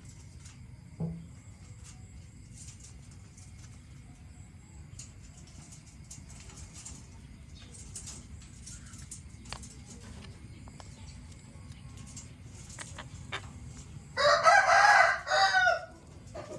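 Quiet rustling and faint clicks, then about fourteen seconds in a bird gives one loud, wavering call lasting about a second and a half, with a short break near its end.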